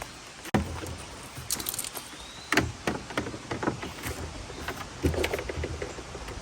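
Scattered clicks and knocks of hands and a tool working at the plastic trim panel of a Jeep door, with a steady low rumble underneath.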